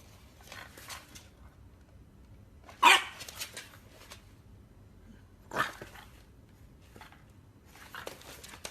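English bulldog barking a few short times, the loudest bark about three seconds in and another about halfway through, with fainter ones around them.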